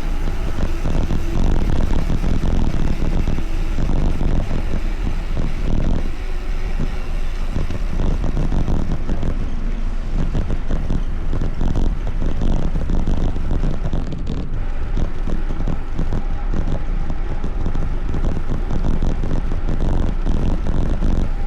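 Wind buffeting the microphone with a steady rumble while riding, with no clear start or stop.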